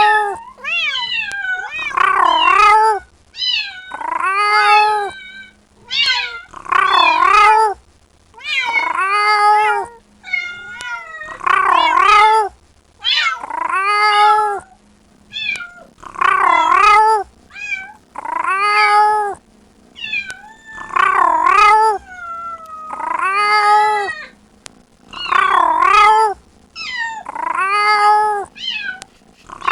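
Kitten meowing very loudly over and over, about one call every two seconds, each call rising and then falling in pitch: a kitten crying for its mother.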